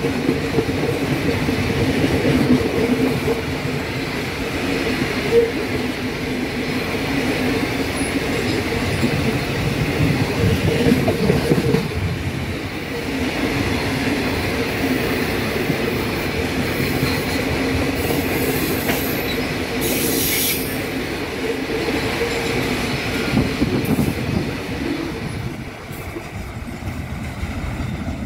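Loaded freight wagons of a magnetite train rolling past on the rails: continuous wheel-on-rail noise with a steady whining tone, and a brief high hiss about two-thirds of the way through. The sound drops off near the end as the last wagon moves away.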